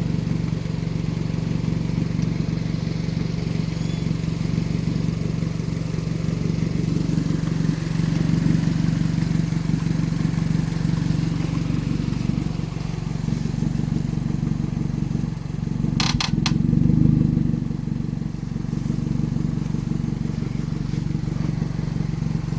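A car engine idling steadily, with a brief rise in level about sixteen seconds in and two or three sharp clicks at the same moment.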